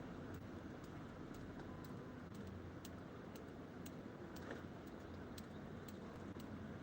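Light rain, drops ticking irregularly several times a second over a steady low background rumble.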